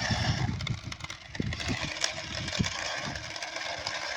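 Remote-control toy monster truck with its motor running and wheels spinning in loose sand, digging a hole, as a steady whirring hiss with irregular low thuds.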